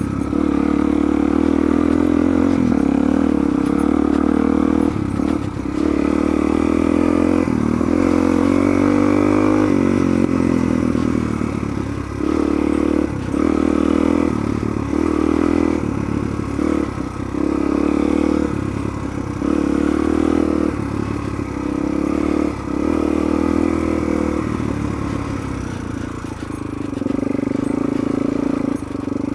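Suzuki DR-Z400 dual-sport motorcycle's single-cylinder four-stroke engine running under way. It pulls steadily at first, then the throttle is rolled off and on again and again through a series of turns, the engine note dipping briefly each time, before it steadies near the end.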